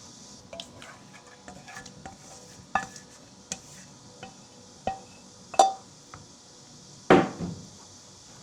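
Kitchen utensils and bowls clinking and knocking in a string of separate taps, with a heavier thud near the end, over a steady high hiss.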